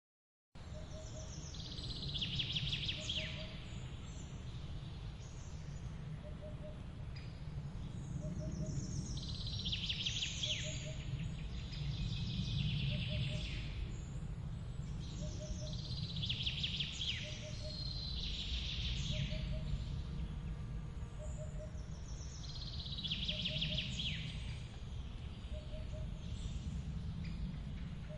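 Forest ambience: birds sing repeated phrases every two to three seconds over a steady low rush of a waterfall, with a soft low double note repeating about every second and a half. The sound cuts in abruptly about half a second in.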